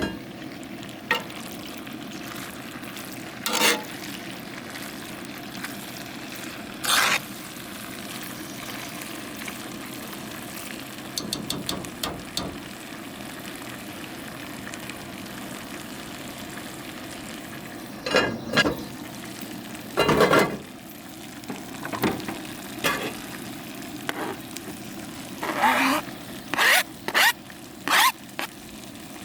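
Food frying in a pan, a steady sizzle, with a utensil stirring and scraping against the pan in scattered strokes, including a quick run of light ticks and a cluster of strokes near the end.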